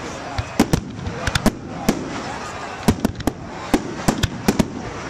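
Fireworks display going off: over a dozen sharp bangs at irregular intervals, some in quick clusters, over a steady background rumble.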